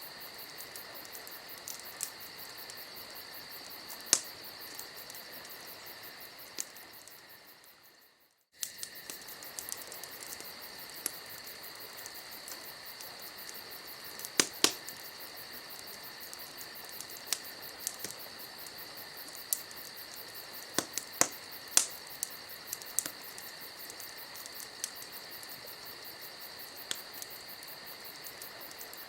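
Campfire ambience: the fire crackles with scattered sharp pops, over a steady high insect trilling. The whole sound fades out about eight seconds in and comes back half a second later.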